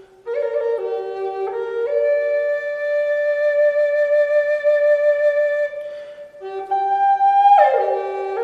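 Background music: a slow solo flute melody of held notes, with one long note in the middle and a note that slides down near the end.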